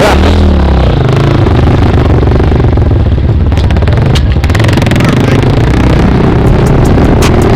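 Small dirt bike engine running steadily while riding, loud on the microphone, with a few sharp knocks about four seconds in and again near the end.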